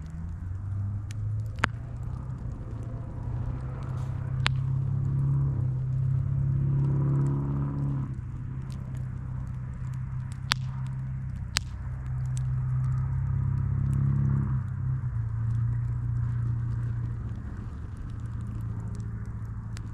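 Campfire burning over a steady low rumble that swells and fades twice, with four sharp pops from the wood.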